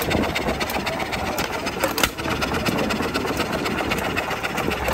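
Old engine running steadily, with a fast run of small knocks throughout.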